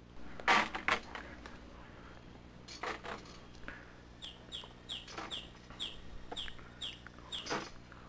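Birds calling: a few loud, harsh squawks, the loudest about half a second in, and from about four seconds in a run of about ten short, high, down-slurred notes, about three a second.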